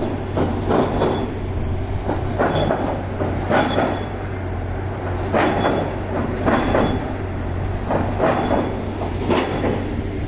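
Train passing, its wheels clattering over rail joints in repeated, often paired knocks about once a second over a steady low rumble.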